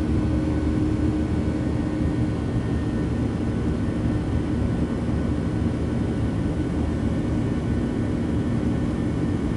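Boeing 737 jet engines and airflow heard from inside the passenger cabin: a steady roar with a faint steady hum, with no change in pitch or loudness.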